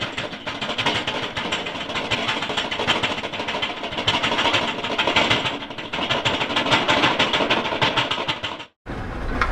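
Construction digger engine running, a steady clattering rumble as it pushes track pieces down, cutting off abruptly near the end.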